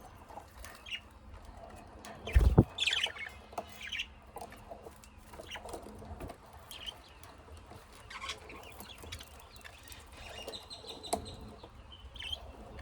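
Small caged pet birds, lovebirds and budgies, chirping in short scattered calls. There is a loud thump about two and a half seconds in and a sharp click near the end.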